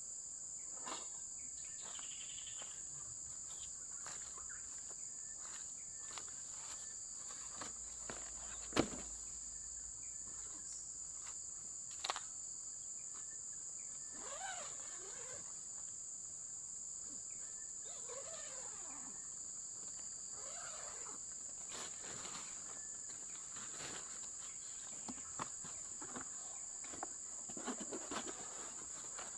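Crickets chirring in a steady, high, unbroken chorus. Scattered clicks and rustles run over it, with a sharper knock about nine seconds in and another around twelve seconds.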